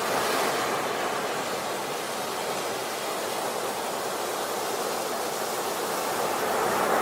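Sea waves breaking on a beach: a wave breaks and washes at the start, the surf eases off, then another wave swells up near the end.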